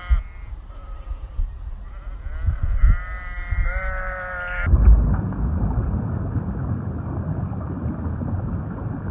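Sheep bleating: a short call at the start, then several wavering bleats from about two seconds in to nearly five seconds. A steady low rumble of background noise follows.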